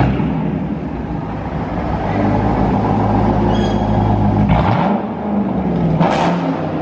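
Car engine running and revving: a steady tone that dips and then climbs in pitch about four and a half seconds in, with a short rushing burst near the end.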